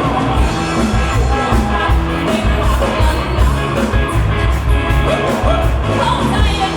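Live band playing a rock-flavoured Thai pop song, with a steady beat and guitar, and some singing or lead lines over it.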